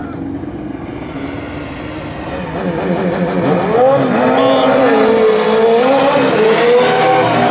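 Racing lawn mower engines running hard down the drag strip, getting louder from about two and a half seconds in, their pitch wavering up and down as they rev.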